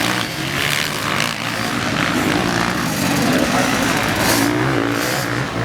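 Motocross dirt bike engines revving up and down as the bikes race, with more than one bike heard at once.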